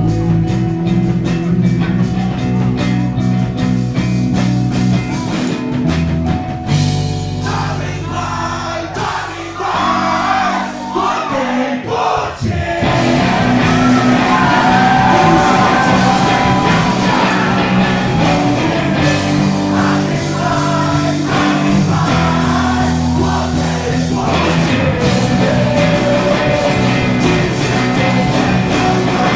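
Live rock band playing a song, with a singer coming in about eight seconds in and the music getting fuller and louder after that.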